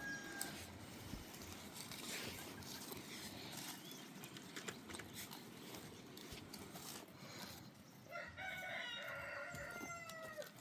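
A rooster crowing once, a single long call lasting a couple of seconds near the end, over faint farmyard background noise.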